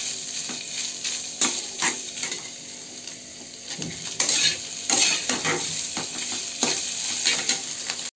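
Boiled soya chunks sizzling in hot oil in a kadhai while a metal spatula stirs them, scraping and clinking against the pan several times; they are being fried until reddish-brown. The sound cuts off suddenly at the very end.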